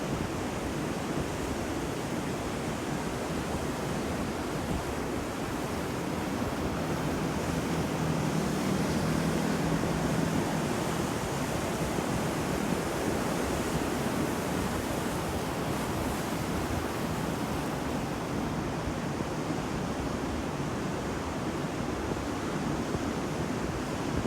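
Ocean surf: waves breaking and washing on the shore in a continuous rushing noise, swelling a little louder partway through.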